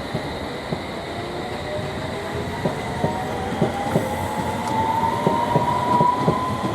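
Electric train running past, its traction motor whine rising steadily in pitch as it gathers speed, with wheels clicking over rail joints that grow louder and quicker from about halfway through.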